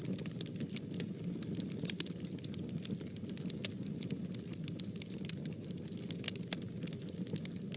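Fire burning in a fireplace, crackling with many irregular small pops over a steady low rumble.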